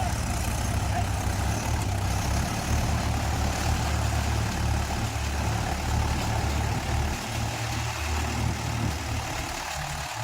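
Tractor diesel engine running steadily with a low, pulsing rumble.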